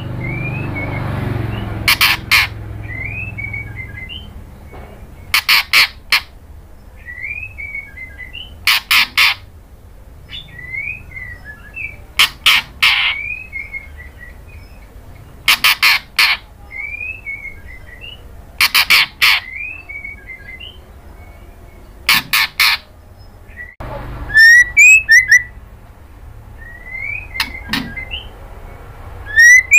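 White-rumped shama calling: loud harsh clicking notes in groups of two or three, about every three and a half seconds, with soft short rising chirps between them. Near the end come quick runs of high twittering notes.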